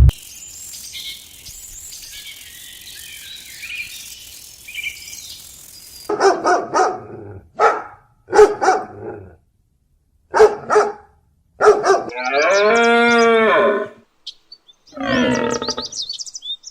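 Farm animal calls: faint high-pitched sounds at first, then, from about six seconds in, a run of short pitched calls, followed by a long drawn-out call and another near the end.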